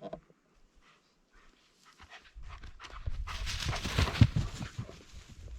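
Dog panting close by, starting about two seconds in and growing louder and rougher before easing off near the end.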